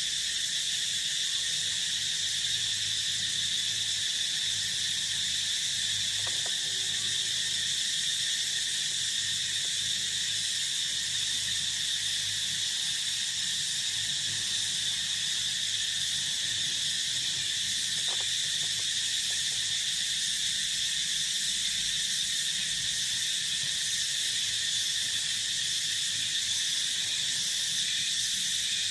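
Steady, unbroken chorus of field insects, a dense high-pitched trill that holds the same level throughout.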